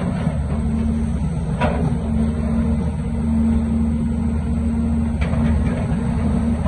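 Heavy diesel construction machine engine running steadily under load, with a couple of brief knocks.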